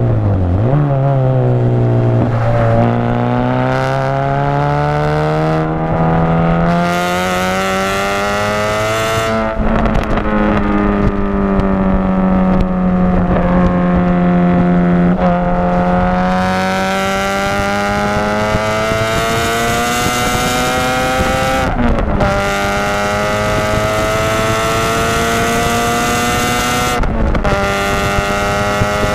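Audi TT race car's turbocharged 1.8-litre four-cylinder engine heard from inside the cabin, climbing in pitch through long pulls. The engine note breaks off briefly about ten, twenty-two and twenty-seven seconds in, as at gear changes.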